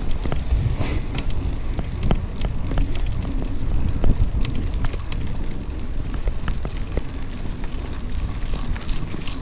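Wind buffeting the microphone of a camera on a moving mountain bike, a steady low rumble, with irregular crackles and clicks from the tyres and bike over a rough dirt track.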